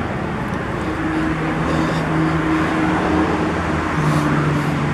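A motor vehicle's engine running at a steady hum over traffic noise; the hum drops slightly in pitch about four seconds in.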